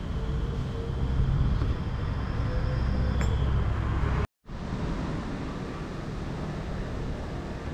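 A car running with a steady low rumble and a faint whine that rises slightly in pitch; it breaks off for a moment about four seconds in, then carries on.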